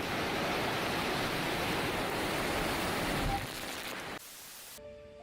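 Very strong wind rushing steadily over the microphone, a dense even noise that drops away abruptly about four seconds in. A much quieter stretch follows, with a few faint steady tones near the end.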